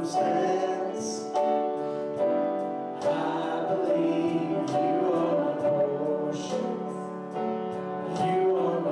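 A church congregation singing a slow worship song with piano accompaniment, the notes held and changing every second or two.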